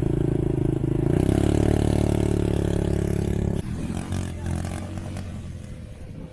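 ATV quad bike engine running loud, revving up about a second in and holding at high revs, then dropping off sharply a little past halfway and fading away.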